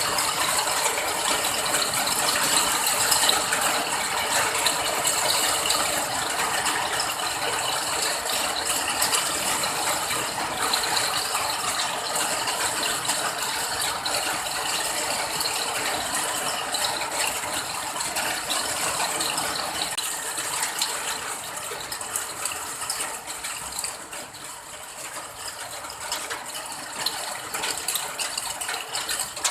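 Rain falling steadily, a dense patter of countless small drops, easing slightly in the last several seconds.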